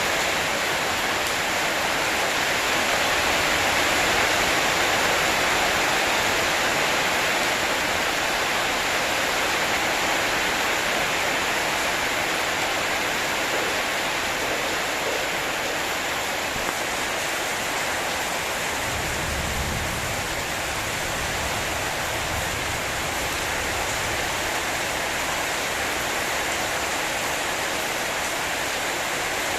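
Heavy storm rain pouring steadily, a dense even hiss, with a brief low rumble about two-thirds of the way through.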